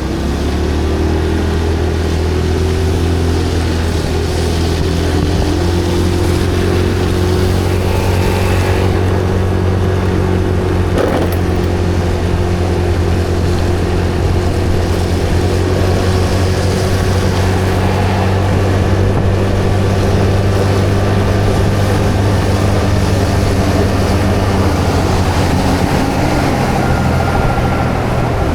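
A vehicle engine running at a steady speed, a loud low drone that holds one pitch, shifting slightly about 25 seconds in.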